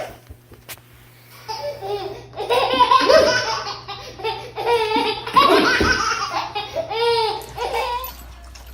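A baby laughing hard in repeated bursts of belly laughter, starting about a second and a half in and running on in a string of high-pitched peals.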